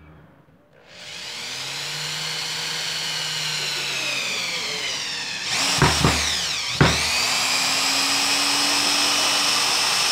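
Bosch GSR 7-14 E corded drill/driver motor spinning up about a second in and driving a thick screw into wood with a steady whine. Around six seconds the whine drops sharply and recovers, with a few knocks, as the motor bogs under load, then runs steadily again.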